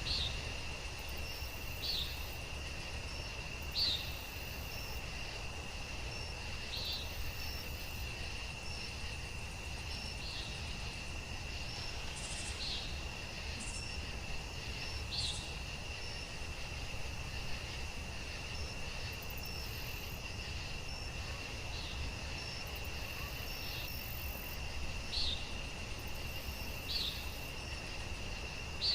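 Crickets chirping: a steady high trill, with short louder chirps every two seconds or so, over a faint low rumble.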